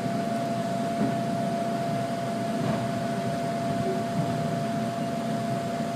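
Steady hum inside a Sydney Trains K-set double-deck electric train: an even noise with one constant tone held throughout.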